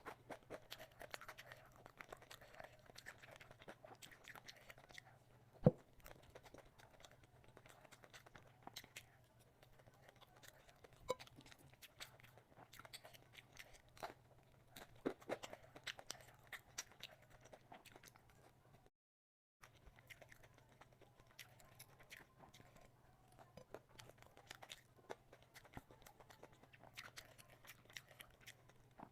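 Close-miked eating sounds: chewing, biting and crunching of food with many scattered sharp mouth clicks, over a faint steady low hum. The sound drops out completely for a moment about two-thirds of the way through.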